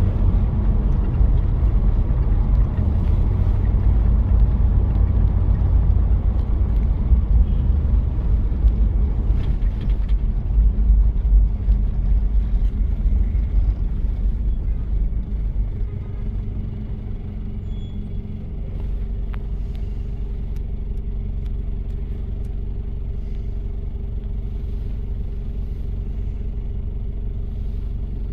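1993 Toyota Prado diesel engine running while driving, a loud uneven low rumble; about sixteen seconds in it quietens and settles into a steady, even hum.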